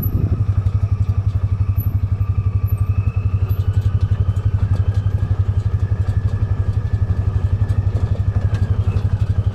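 An engine running steadily at idle, with an even, rapid low throb and a faint steady whine above it.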